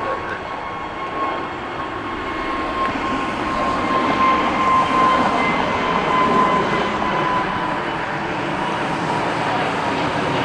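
Jet airliner engines running, a steady rush with a high whine that sinks slightly in pitch, loudest about halfway through.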